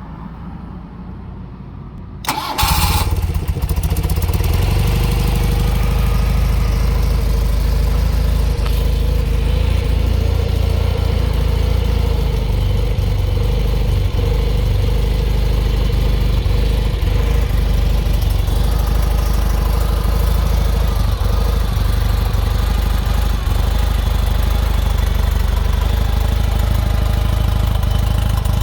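1972 BMW R75/5 air-cooled flat-twin engine being cold-started: it fires up suddenly about two seconds in and then settles into a steady idle.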